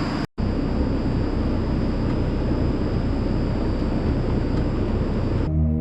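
Steady rushing machine noise with a faint high whine. It cuts out for an instant just after the start, and music comes in near the end.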